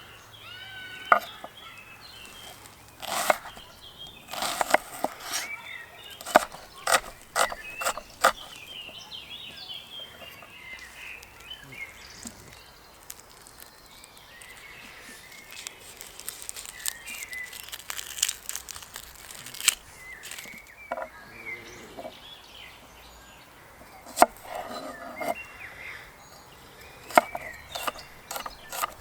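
Irregular sharp knocks and clicks, like utensils or a knife on a board, with birds chirping in the background.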